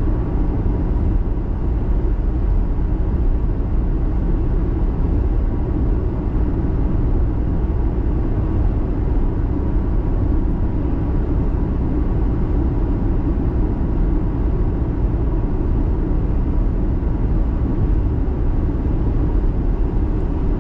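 Steady road and engine noise of a car being driven: an even low rumble with no sudden changes.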